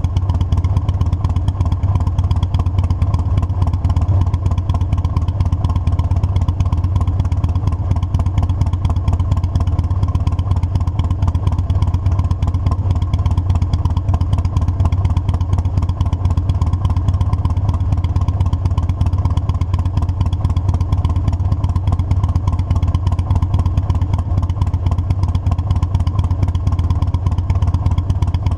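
Motorcycle engine running steadily while riding, a low, even drone with no revving.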